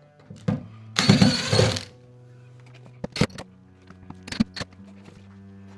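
Background music with a loud clattering crash about a second in, followed by a few sharp knocks.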